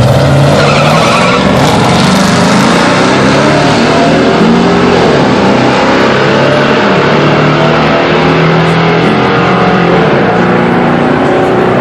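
A pickup truck engine running hard under load, its note climbing and dropping repeatedly as the truck accelerates, loud and continuous.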